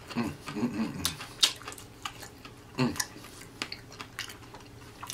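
A person chewing fried chicken with the mouth closed: wet clicks and lip smacks, with a couple of hummed "mm" sounds of enjoyment, one in the first second and a short falling one about three seconds in.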